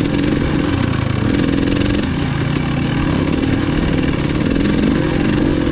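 Dirt bike engine running on an off-road trail, its note rising and falling with the throttle.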